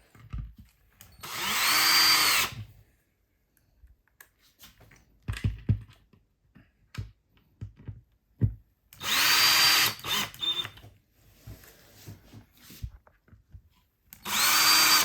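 Cordless drill-driver driving screws in three short bursts, the motor whine rising as it spins up, holding for about a second and dropping as it stops. Light knocks and clicks of handling the parts come between the bursts.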